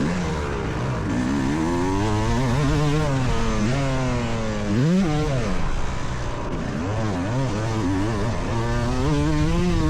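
Two-stroke motocross bike engine heard from on board, revving hard and shutting off again and again as the rider works the throttle through the track, its pitch climbing and dropping every second or two, with a quick sharp rev and drop about halfway through.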